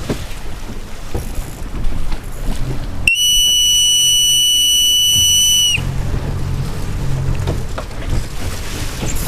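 One long, steady whistle blast lasting nearly three seconds, starting about three seconds in, signalling the sailors to tack. Wind buffets the microphone and water splashes throughout.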